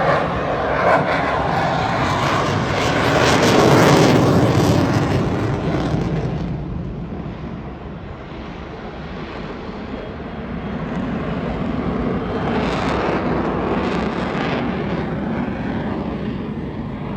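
Aircraft flying past with a loud engine rush that swells to a peak about four seconds in, fades, then builds again with a second pass near the end.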